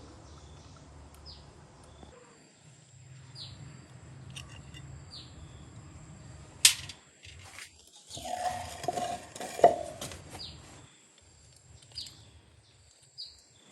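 Metal machine parts being handled: a sharp metallic click, then about two seconds of clinking and clattering with a ringing note, ending in a loud clank. Short high chirps, like small birds, come and go in the background.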